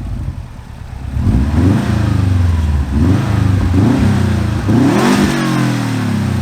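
Subaru Legacy GT Spec B's turbocharged 2.5-litre flat-four through a Magnaflow cat-back exhaust, revving up and dropping back about four times after a steady start, the last rev the highest.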